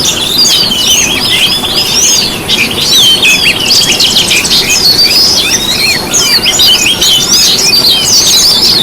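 Dense chorus of small songbirds chirping and twittering, many quick high calls and short sweeps overlapping without a break.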